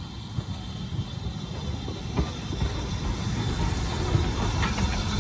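Train on a heritage steam railway: a steady low rumble that grows gradually louder.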